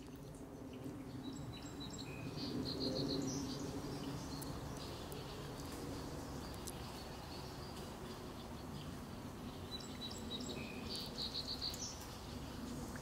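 Songbirds calling outdoors over a steady low background noise. A short run of about five quick chirps comes twice, about three seconds in and again near the end, with a few single calls between.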